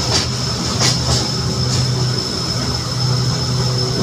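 Electric railway train running along its track, heard from inside the car: a steady low rumble and hum under a constant high whine, with a few clicks in the first two seconds.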